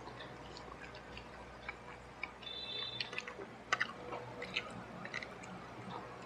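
Faint chewing of crispy battered fried chicken: soft, scattered crunches and wet mouth clicks, with a few sharper clicks around the middle, over a low steady hum.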